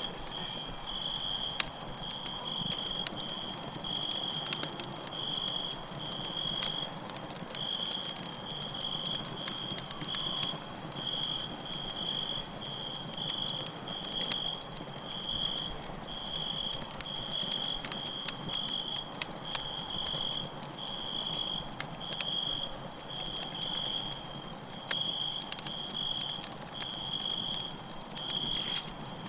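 Crackling campfire with irregular sharp pops and snaps from the burning wood, layered with a steady chorus of crickets chirping in a high, even pulse about twice a second.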